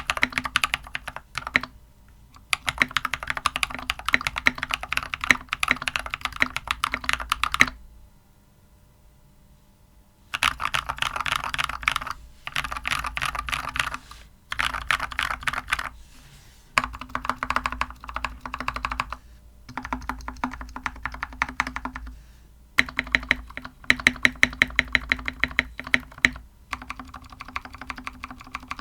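Anne Pro 2 mechanical keyboard with tactile Glorious Panda switches, foam dampeners and stock keycaps, typed on while sitting on a deskmat. Fast bursts of keystrokes with short pauses between them, and a break of about two seconds roughly a third of the way in.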